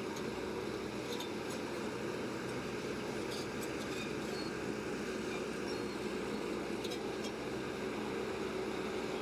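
Diesel engine of heavy earth-moving machinery running steadily, with a few faint metallic clicks about a second in, about three and a half seconds in, and near seven seconds.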